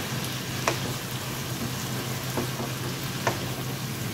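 Corn kernels with onion, bell pepper and bacon bits sizzling in a skillet while a wooden spatula stirs them. The spatula knocks sharply against the pan a few times. A low steady hum runs underneath.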